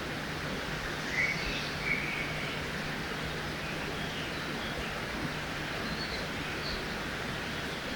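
Forest ambience beside a river: a steady rush of flowing water with a few short bird chirps over it, the two clearest about one and two seconds in and fainter high calls later.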